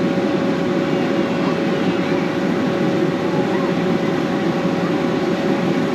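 Electric blower fan of an inflatable bounce house running steadily: a loud, even drone with a constant hum tone.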